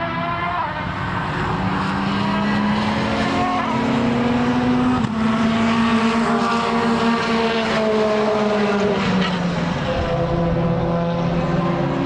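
Racing car engine running hard on track, its pitch climbing, then dropping sharply at a gear change about five seconds in and again near ten seconds.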